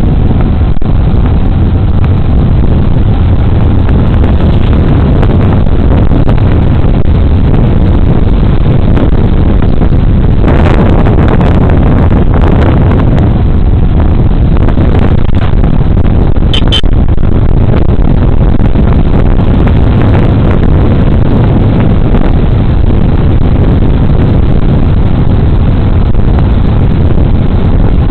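Loud, steady wind and road noise on a body-worn camera's microphone while riding a Suzuki Burgman Street 125 scooter, with the scooter's engine running underneath. A short, high, pulsing beep sounds about sixteen and a half seconds in.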